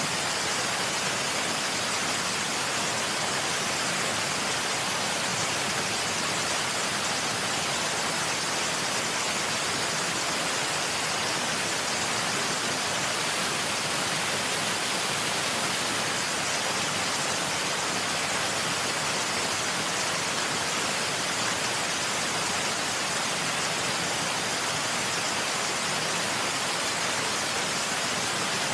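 Waterfall, water falling in a steady unbroken rush, heard as an even hiss with little low rumble that does not change in level.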